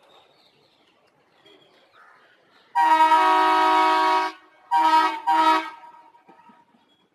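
Indian Railways locomotive horn sounding one long blast followed by two short blasts.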